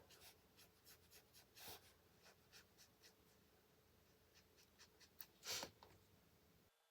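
Faint, irregular strokes of an Ohuhu alcohol marker's brush tip on paper, with one louder stroke about five and a half seconds in. The sound cuts off just before the end.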